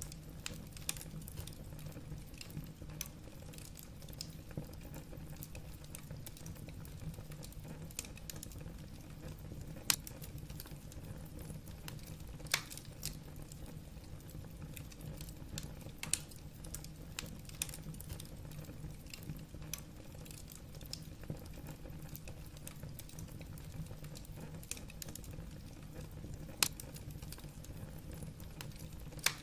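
Wood fire burning in a fireplace: logs crackling with irregular sharp pops over a steady low rumble of the flames, a few louder snaps among them.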